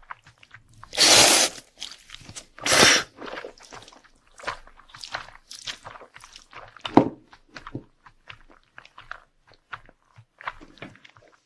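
Two loud crunchy bites into crisp food, then steady close-up chewing with small crackles and mouth clicks.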